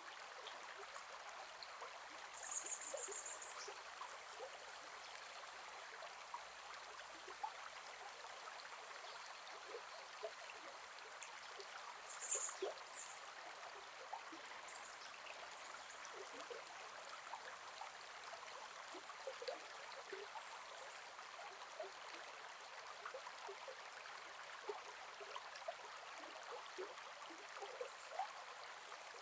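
Gentle forest river flowing steadily, with a constant trickling and bubbling. A few short high chirps come over it, about two and a half seconds in and again around twelve seconds in.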